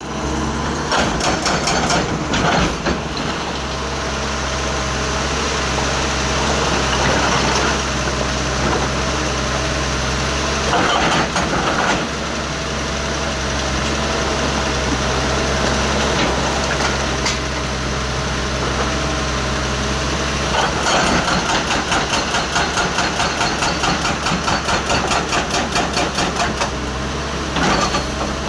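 Excavator engine running steadily, with a wavering high tone over the drone. About two-thirds of the way through, a rapid rhythmic clatter of about three beats a second sets in for several seconds.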